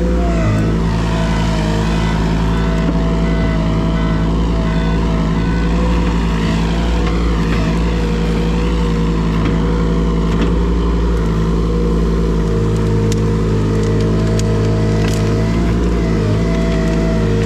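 An engine running steadily at a constant speed, with a few sharp clicks or knocks near the end.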